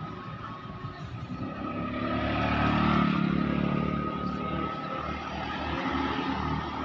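Truck engine running under load, growing louder over about three seconds and then easing off.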